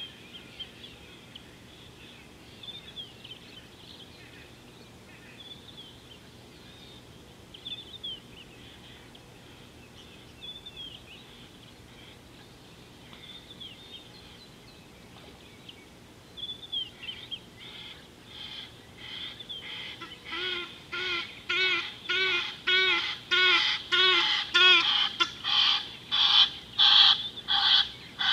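Faint bird chirps, then a bird calling loudly and harshly over and over, a little under two calls a second. The calls build in loudness through the second half and stay loud to the end.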